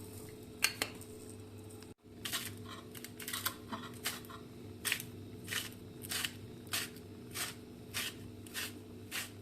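Food being cut in the kitchen: sharp, even cutting strokes, about three every two seconds, over a steady low hum. The sound drops out briefly about two seconds in before the strokes begin.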